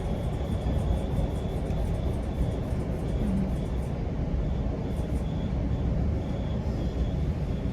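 GO Transit commuter train running along the track: a steady low rumble of wheels and rails. A faint high tone pulses on and off through it.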